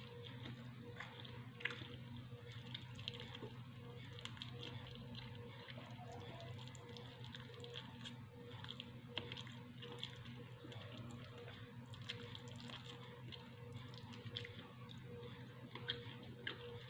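A person chewing and eating, with many small, irregular wet clicks and smacks of the mouth. A steady low hum runs underneath.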